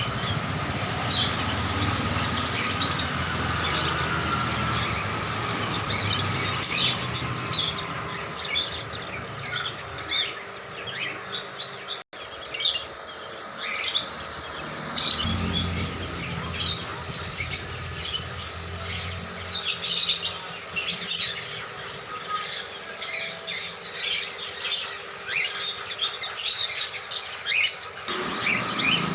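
A flock of small birds chirping and squawking, many short, sharp calls overlapping without pause.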